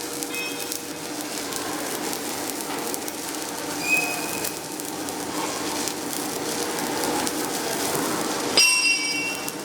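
Flux-cored arc welding on carbon steel: a steady crackling arc. A few short metallic clinks ring out, the loudest near the end.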